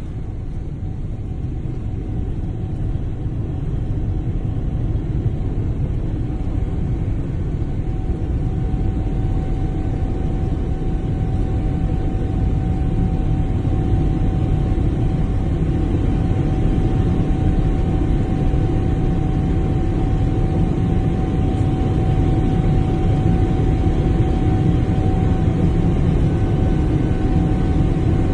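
Airplane engines heard from inside the cabin: a dense low rumble that slowly grows louder, with a steady whine coming in about a third of the way through.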